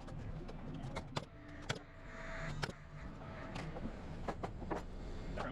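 Irregular sharp knocks and clacks of framing work on wooden floor joists, roughly one to three a second, over a steady low rumble.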